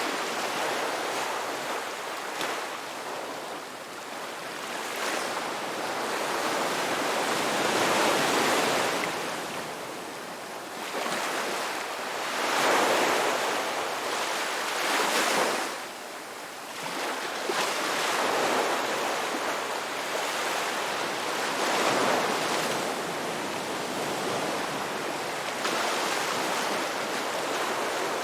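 Ocean waves breaking and washing up on a beach, a rushing surf that swells and falls back every few seconds.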